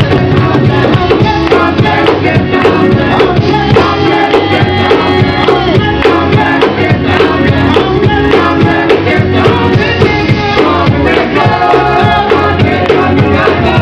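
Live gospel group singing with a full band, drums keeping a steady beat under the voices.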